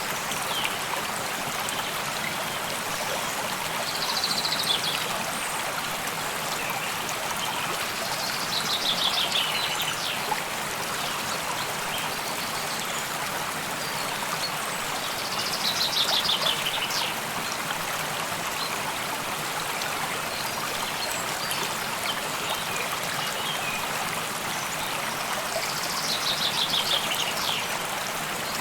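A stream flowing steadily. Four times, a bird sings a short, fast trill that falls in pitch.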